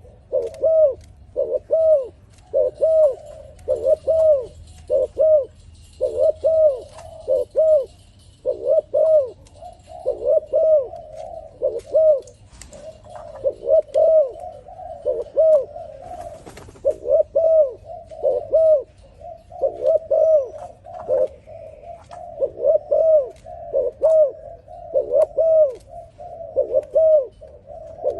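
A dove cooing over and over: short, arched, low coos, mostly in pairs, about one pair a second, with a few brief breaks between runs.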